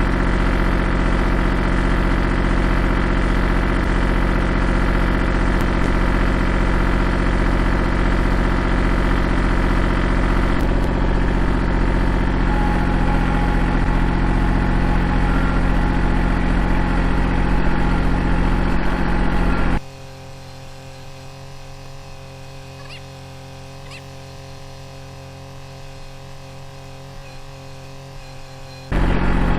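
Kubota L2501 tractor's three-cylinder diesel engine running steadily. About two-thirds of the way through, the sound drops suddenly to a much quieter level for several seconds, then comes back at full loudness near the end.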